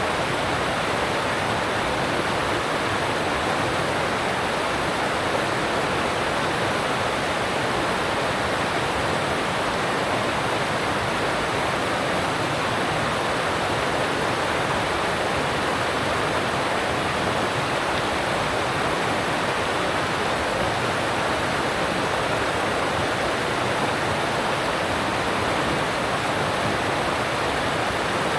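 Alpine stream water rushing past in a steady, unbroken rush.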